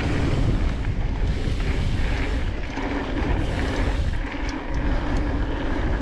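Wind rushing over the microphone and knobby mountain-bike tyres rolling over a dirt trail during a fast descent, a steady low rumble.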